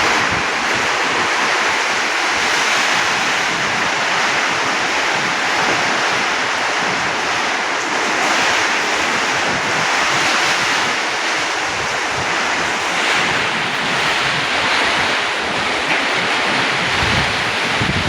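Rainstorm with heavy rain and strong wind: a loud, steady rushing hiss that swells a little in gusts, with wind buffeting the microphone underneath.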